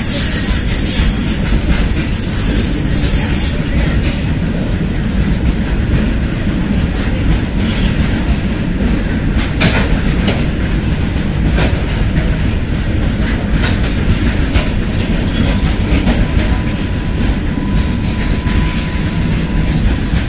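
Indian Railways freight train of covered wagons rolling past at close range: a loud, steady rumble with wheels clacking over rail joints. A high-pitched squeal over it in the first few seconds stops about four seconds in.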